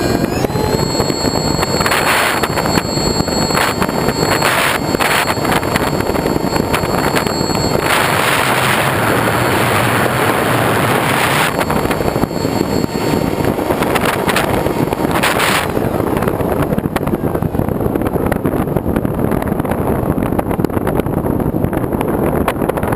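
Wind rushing over an action camera's microphone while moving in a vehicle, a loud steady rush with several stretches of brighter hissing.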